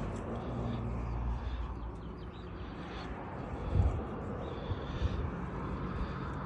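Steady low hum of outdoor background noise, with two dull knocks about four and five seconds in.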